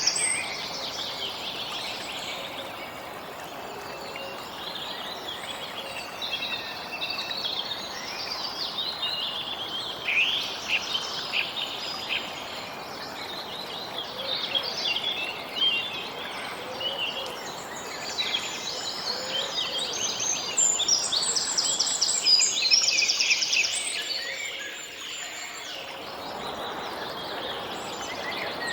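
Several birds chirping and singing over an even background hiss, with rapid trills at the start and again about three-quarters of the way through.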